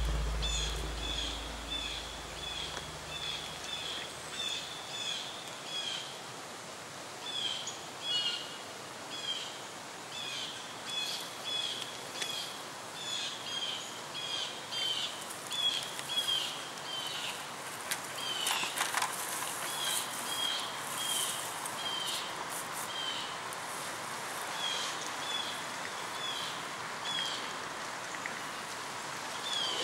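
Woodland birdsong: a bird repeating short, high, slightly falling chirps about once or twice a second over a faint background hiss. A few brief rustles come about two-thirds of the way through, and a low music tone fades out in the first few seconds.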